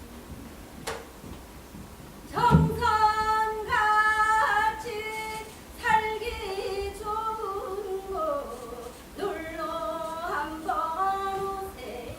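A woman singing a Korean folk song in the traditional gyeongseodo sori style. She comes in about two and a half seconds in, with a low thump at her entry, after a quiet start. Her held notes waver and slide between pitches.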